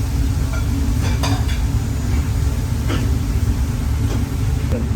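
A utensil stirring food in a cooking pan, with two short scrapes about a second in and near three seconds, over a steady low rumble.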